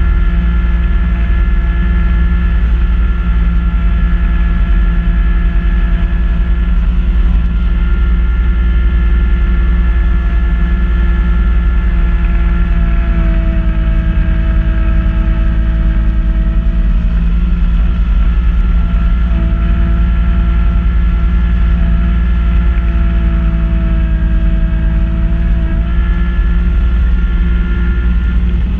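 Kubota B2650 tractor's three-cylinder diesel running steadily while it drives a front-mounted Kubota B2782 snow blower, with a whine over it that shifts slightly up and down in pitch a few times.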